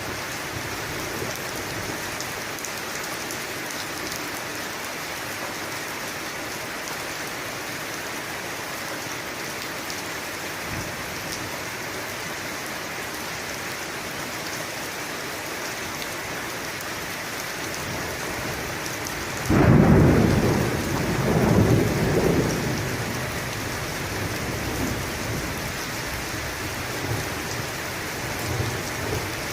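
Steady rain falling. About two-thirds of the way in, a sudden loud clap of thunder breaks in and rolls on in a second swell, then rumbles away over several seconds.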